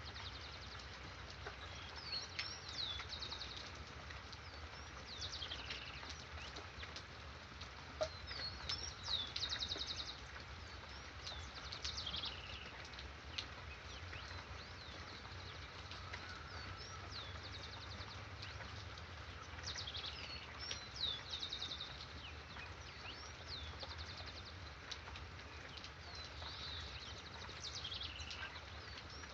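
Songbirds singing over a steady hiss of rain. One song phrase of short high downslurred whistles ending in a fast trill comes back every several seconds.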